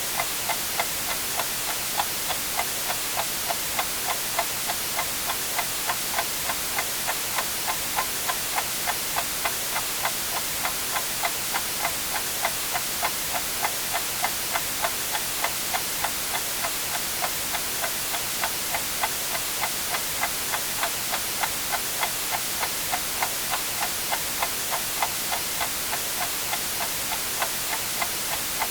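A clock ticking steadily, about two ticks a second, over a continuous hiss of white noise.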